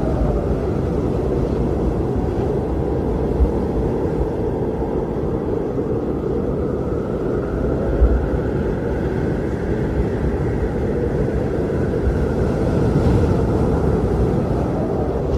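Strong blizzard wind blowing steadily, a deep rumbling rush with a howling tone that slowly rises and falls in pitch. Brief low bumps of gusts come about 3.5 s and 8 s in.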